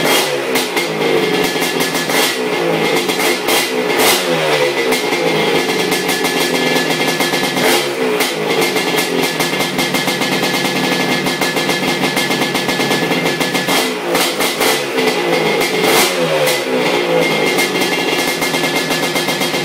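Honda 250R trike's ESR 310 two-stroke engine running on its first heat cycle, blipped several times, its pitch rising and falling back to a fast idle after each rev.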